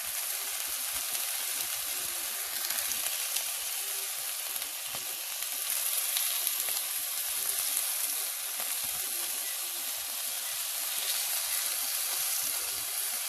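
Meat sizzling on a hot pan or grill: a steady frying hiss with scattered small crackles.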